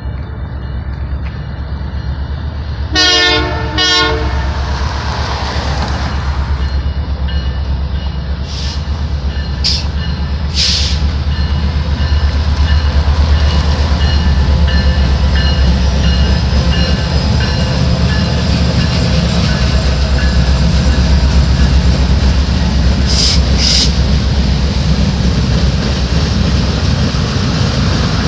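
Canadian Pacific Holiday Train passing: the diesel locomotive's horn gives two short blasts about three seconds in, over the steady rumble of the locomotives. The rumble grows louder from about twelve seconds in as the train goes by, with a few sharp clacks from the wheels and cars.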